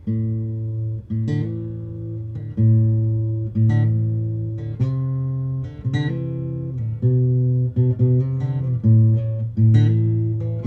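Luna acoustic guitar strung with medium-gauge Elixir strings, played unplugged. Notes and chords are picked one after another, a new one about every second and a little faster near the end, each left to ring.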